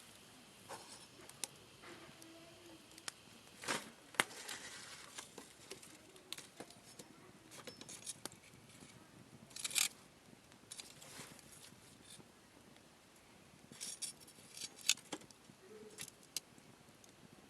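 Wood fire crackling: irregular sharp snaps and pops, a few louder ones about four, ten and fifteen seconds in, over a faint hiss.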